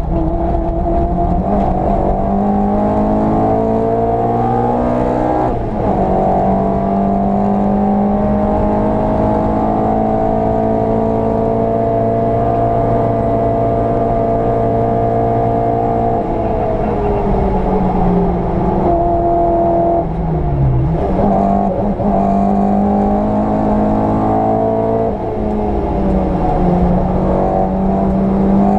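VW Polo 86C's engine under load, heard from inside the car on a fast lap: the revs climb, drop sharply at a gear change about five seconds in, then climb again and hold high and steady. Around the middle the revs fall away as the driver lifts off, then rise and fall with further gear changes near the end.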